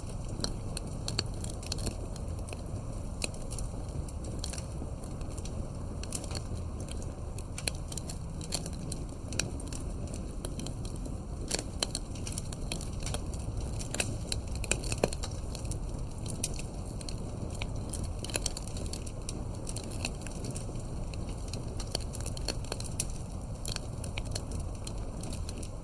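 Wood fire crackling: a steady low rumble of burning, with sharp pops and snaps at irregular intervals.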